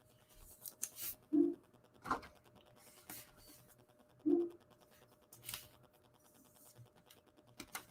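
Baseball trading cards being handled and flipped through: a series of short scratchy swishes and clicks as cards slide over one another. Twice a brief, low tonal blip stands out, about a second and a half in and again past four seconds.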